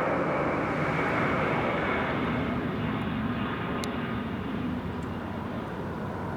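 A large aircraft flying low on its approach to land, its engine noise slowly fading as it moves away.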